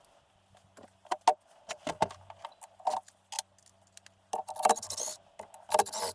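Hand tools and metal engine parts clinking and scraping during an engine teardown: irregular clicks and knocks, with a couple of longer rattling scrapes near the end.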